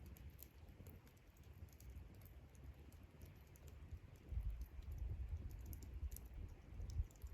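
Wood campfire crackling, with irregular small sharp pops and ticks, over a low rumble that grows louder about four seconds in.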